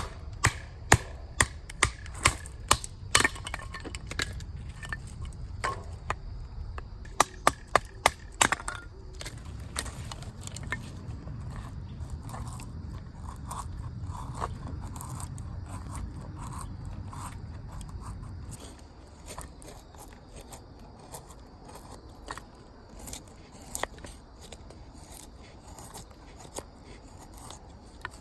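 A run of sharp knocks, several in quick succession about seven to eight seconds in, over a low rumble that stops about eighteen seconds in; after that only a few faint clicks.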